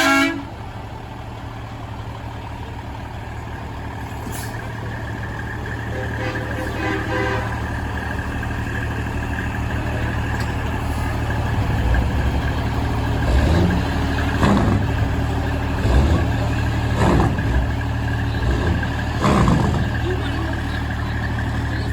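Diesel engines of passing Kenworth semi-trucks running in a steady low drone that grows louder as they come closer, with a short horn blast right at the start and uneven knocks and rumbles in the second half as they go by.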